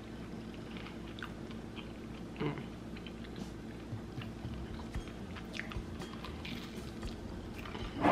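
A person chewing a bite of freshly fried pastry patty, with small scattered mouth clicks.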